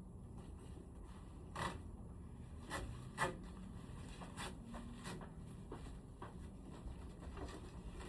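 Short, scattered scrapes and clicks of hands and tools working on room air conditioner parts during cleaning, about six in eight seconds, over a low steady hum.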